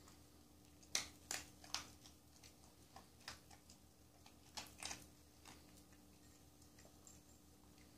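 A dog eating dry kibble, with irregular, quiet crunches and clicks clustered about a second in and again near the middle.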